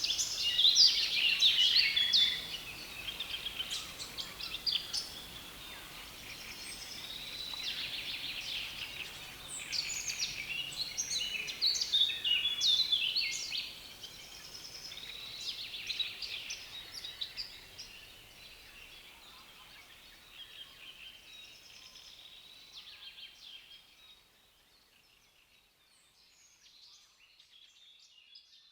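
Songbirds in a reedbed singing loudly, a dense chatter of scratchy, repeated phrases. It grows fainter through the second half and fades almost away near the end.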